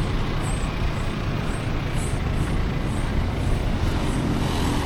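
Steady low rumble and hiss of a vehicle in motion, with no changes in level.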